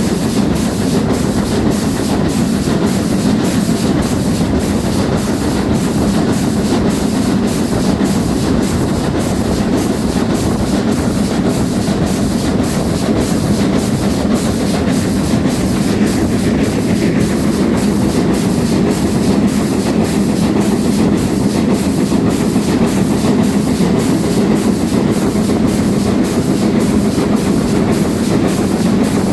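Steam train hauled by GWR Castle-class locomotive 4079 Pendennis Castle, running steadily along the line: a continuous low rumble of wheels on rails, with a faint regular beat about twice a second.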